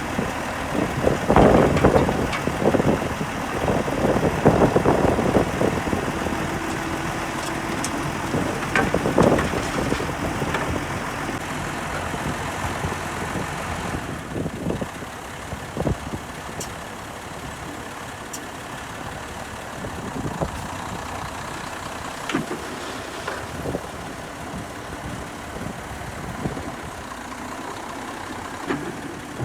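Heavy diesel construction machinery running: an excavator and dump truck at work. The first ten seconds or so are loud, with clattering and knocks, then it settles to a steadier engine sound with occasional knocks.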